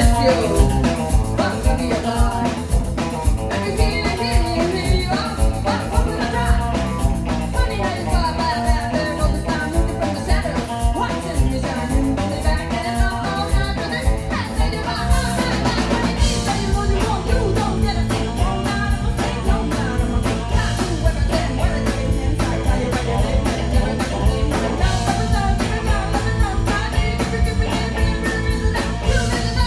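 Live rock band playing with a singer: drum kit, electric guitar and bass, with a sung vocal line over a steady beat.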